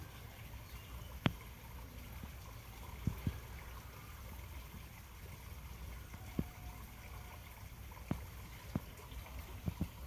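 Pond ambience: water trickling over a steady low rumble, broken by about eight short, sharp clicks or plops at irregular intervals.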